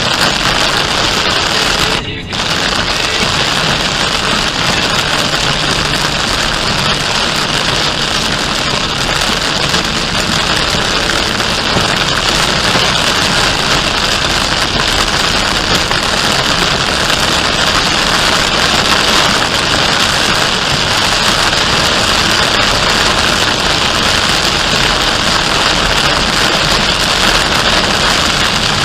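Loud, steady hiss of heavy rain on a moving car, mixed with the tyre spray and road noise of driving on a wet highway, heard from inside the car. The sound drops out for a moment about two seconds in.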